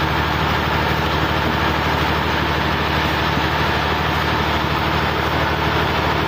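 A sawmill's engine running steadily at an even pitch, with a constant mechanical hum and no change in speed.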